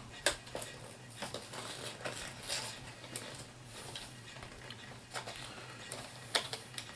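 Light clicks and rustling from small plastic miniatures and their packaging being handled, with a few sharper ticks, over a faint steady low hum.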